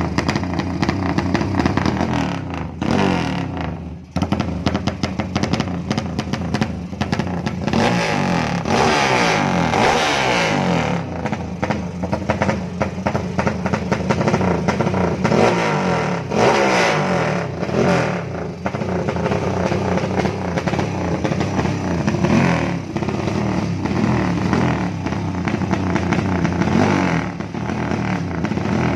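Honda GL single-cylinder motorcycle engine breathing through a DOS aftermarket muffler, revved again and again in a free-rev sound check, its pitch climbing and falling with each blip and dipping briefly about four seconds in.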